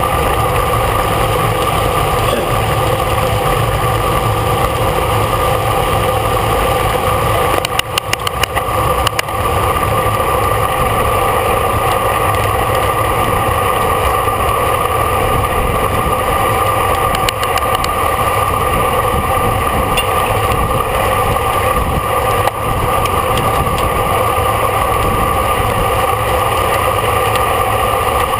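Steady rush of wind and road noise on the microphone of a racing bicycle moving at speed, with a short run of fine ticking about eight seconds in.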